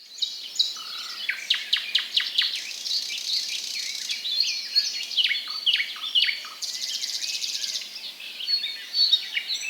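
Birds chirping together, a busy run of quick downward-sliding high notes, with a buzzy trill about seven seconds in.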